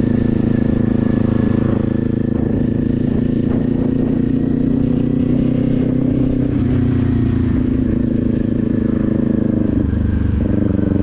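Motorcycle engine running steadily under way. Its note eases a little lower partway through and changes pitch about a second before the end.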